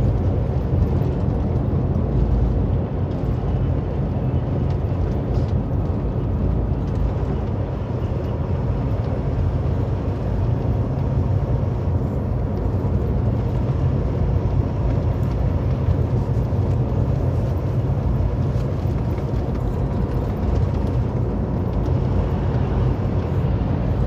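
Steady drone of a semi-truck's engine and road noise heard from inside the cab while cruising on the highway.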